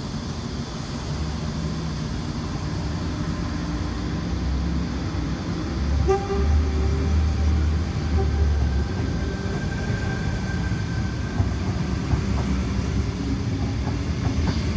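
Sydney Tangara electric suburban train departing the platform: a low running rumble that grows louder, with a faint steady whine from its motors from about six seconds in.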